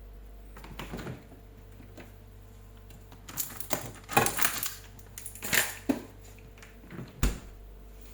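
Kitchen handling noises: a run of short clicks, knocks and clatters, busiest a little past the middle, with one more knock near the end.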